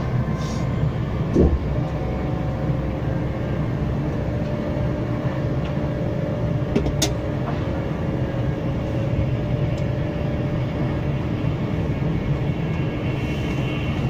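Class 390 Pendolino electric tilting train running at speed, heard inside the carriage: a steady low rumble with a faint steady hum over it. A brief thud comes about a second and a half in, and a sharp click about seven seconds in.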